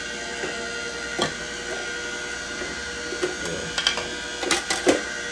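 Slow masticating juicer's electric motor running with a steady whine, with sharp clicks and cracks about a second in and several more near the end as it crushes fruit.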